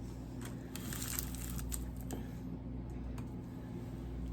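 Hand handling noise: light rustling and a few small taps and clicks, over a steady low hum.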